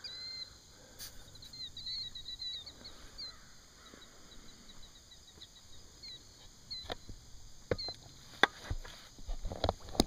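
Small birds chirping: a quick run of high twittering notes in the first few seconds, then a few scattered single chirps. Several sharp knocks come in between, the loudest about eight and a half seconds in.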